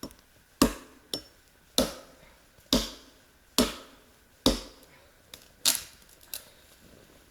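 Firewood being cut up by a campfire: a series of sharp wooden cracks, about one a second.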